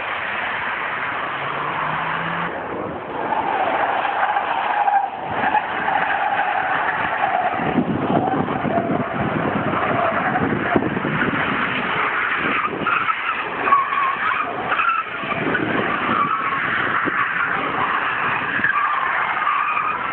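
Car driving hard on a wet road: steady road and spray noise with a wavering high whine laid over it.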